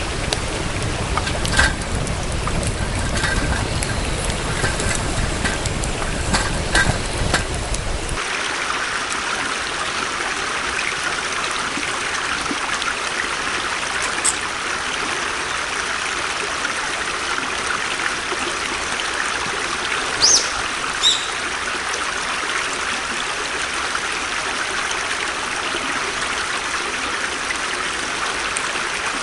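Flowing water running steadily, an even rushing hiss. For about the first eight seconds a low rumble and a few sharp clicks lie over it, and they stop abruptly.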